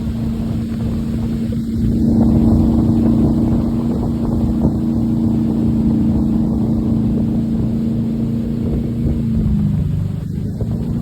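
Motorboat engine running steadily under way, with wind and water noise over it. The drone gets louder about two seconds in, and its pitch drops slightly near the end as the engine eases off.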